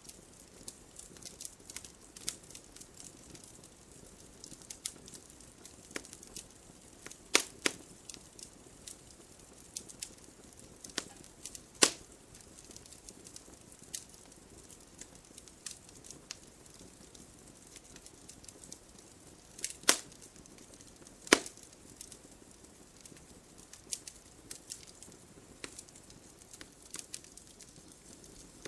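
Burning logs in a fireplace crackling, with a constant scatter of small snaps over a faint low hiss of the flames. A few louder sharp pops stand out, two close together about a third of the way in and two more about two thirds through.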